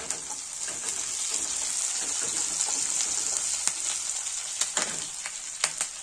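Chopped onions and green chillies frying in hot oil in a pan with a steady sizzle. A few sharp crackles and pops come in the second half as washed curry leaves go into the oil.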